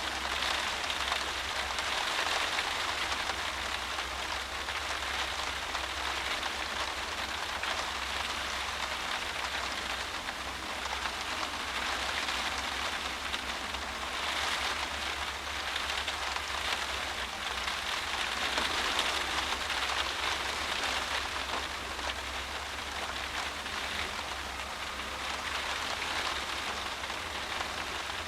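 Heavy driving rain beating against a windowpane, heard from inside: a dense, steady patter that swells and eases in gusts, over a low steady hum.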